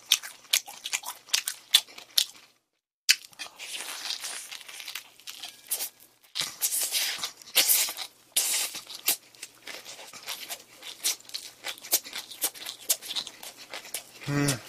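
A mouthful of kimbap chewed close to the microphone: dense wet clicks and smacks with crisp crackling as the seaweed-wrapped roll is bitten and torn. Near the end comes a short hummed "mm".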